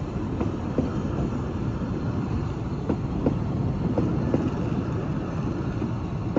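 Welsh Highland Railway narrow-gauge passenger coaches rolling past at low speed: a steady rumble of wheels on the rails, with sharp clicks and knocks every half second or so.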